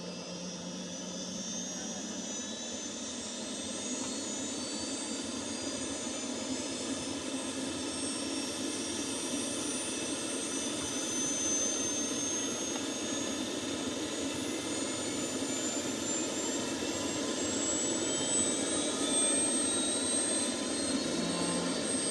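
Helicopter turbine engine spooling up: a high whine rising steadily in pitch and growing louder.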